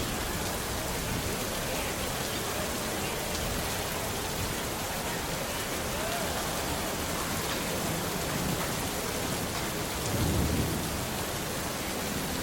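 Steady rain falling on hard surfaces, an even hiss, with a short low rumble of thunder about ten seconds in.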